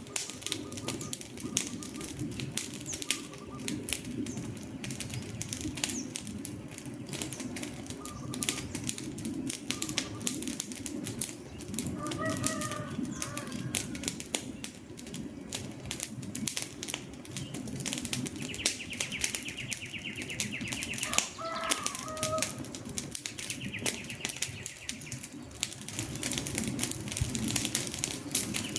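Wood fire burning with constant crackling: dense pops and snaps over a low rumble. Short bird calls cut in twice, near the middle and again about two-thirds through.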